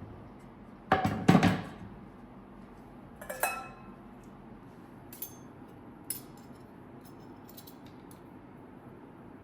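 Kitchen items being handled and set down: a clatter of knocks about a second in, the loudest part, then a ringing clink about three and a half seconds in, followed by a few light taps.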